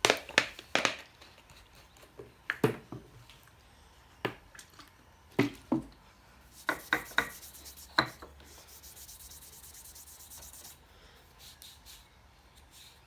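Workshop handling sounds: a series of sharp, irregular knocks and clicks of tools and metal parts being worked and set down, with a hiss of about two seconds after the middle.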